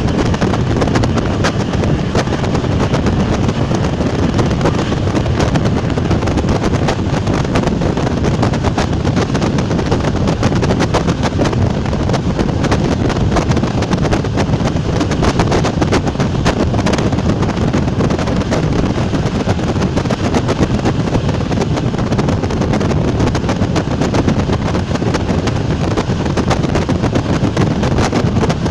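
Czech Railways class 460 electric multiple unit under way: a steady, loud running rumble with constant rapid clattering and rattling from wheels on rail.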